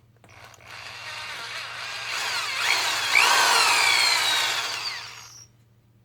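Electric drill boring a hole into a scrap wooden block, running for about five seconds with its whine gliding up and down in pitch, then stopping.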